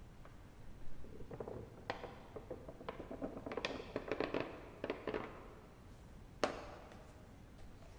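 Wood fire crackling in a fireplace: a run of irregular pops and snaps, then one sharp, loud crack.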